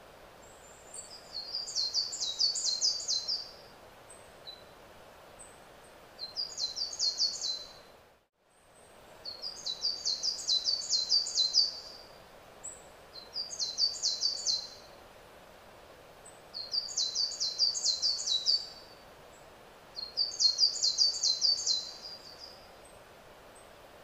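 A songbird singing the same fast, high trilled phrase over and over, six phrases a couple of seconds long with short pauses between, over a steady background hiss. The sound cuts out completely for a moment about eight seconds in.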